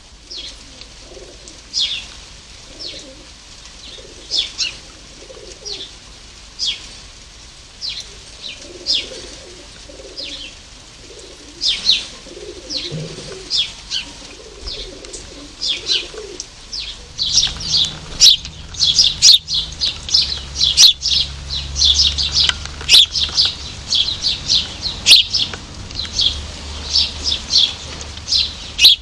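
Small garden birds chirping at a feeder, the chirps growing much busier about halfway through. A pigeon coos low in the first half, and there are a few sharp taps and wing flutters later.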